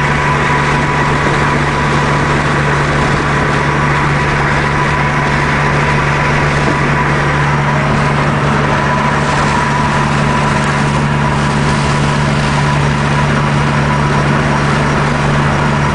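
Supercharged Nissan Sentra SE-R Spec V's 2.5-litre four-cylinder running steadily through a Nismo exhaust, with no revving and a thin steady high tone over the exhaust note.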